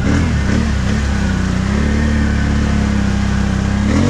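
Can-Am 1000's Rotax V-twin engine running at steady revs, its pitch wavering briefly near the end.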